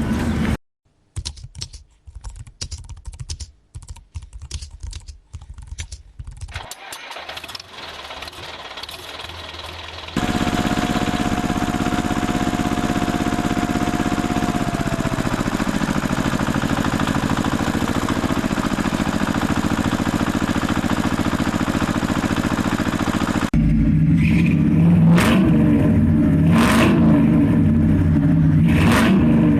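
Engine sounds: an irregular sputtering for the first ten seconds, then a steady running engine note, switching near the end to a lower running note with a few short whistling sweeps.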